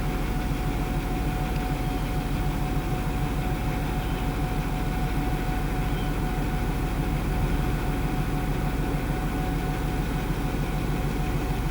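Railway locomotive standing and running steadily, a low rumble with a constant high-pitched tone over it.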